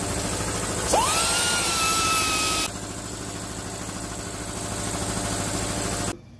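A pneumatic tool spins up with a quickly rising whine over a hiss of air and runs for under two seconds before stopping, over a steady machine hum.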